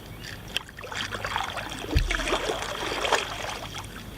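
Kayak paddle dipping and splashing in river water, with a sharp knock about two seconds in.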